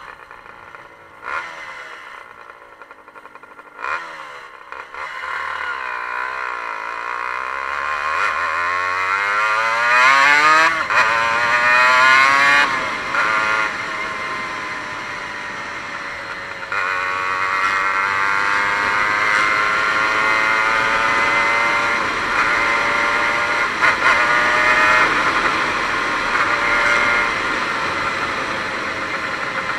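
Aprilia RS 125's two-stroke single-cylinder engine under way: from low revs it climbs to a high-pitched wail about ten seconds in, eases off, then picks up sharply around seventeen seconds and holds high revs. Two sharp knocks sound in the first few seconds.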